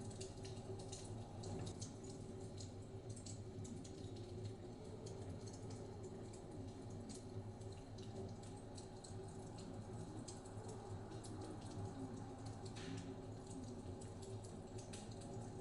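Wood fire crackling in a fireplace, with irregular sharp pops and ticks, over a steady low rumble of blizzard wind.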